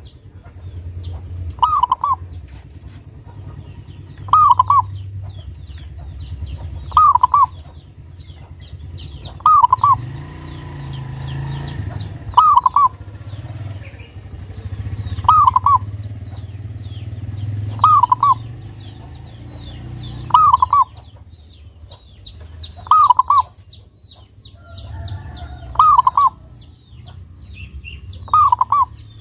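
Zebra dove (perkutut) cooing: a short call repeated about every two and a half seconds. Faint high chirps of small birds run behind it.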